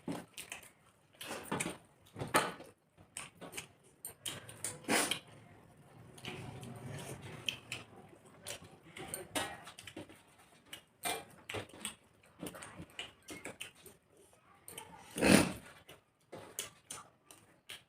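Close-up eating sounds: irregular chewing, lip smacking and small clicks of mouthfuls of rice and chicken curry, with one louder brief burst about fifteen seconds in.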